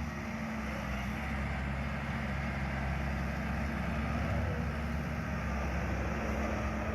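Bobcat 980 skid steer loader's four-cylinder turbo diesel engine running steadily.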